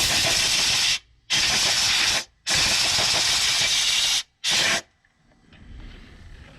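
Pressurized gas hissing hard from a nozzle in four on-off bursts, the longest about a second and a half, each starting and stopping abruptly.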